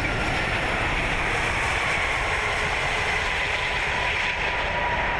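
Airbus A380 flight-deck noise at touchdown and the start of the landing roll: a steady rumble of the wheels on the runway under a hiss of airflow.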